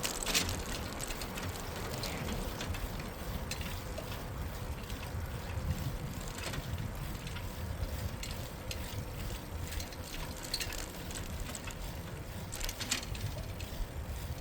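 Ride noise from a bicycle on a city cycle path: a steady rush of wind and tyre rumble, with scattered light clicks and rattles from the bike.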